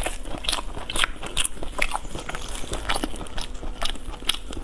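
Close-up mouth sounds of someone chewing a piece of braised meat: irregular wet clicks and smacks, a few every second.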